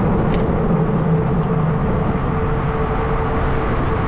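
Ride noise from a fat-tire e-bike moving at about 20 mph: wind on the microphone and tyre rumble on the road, with a steady whine underneath.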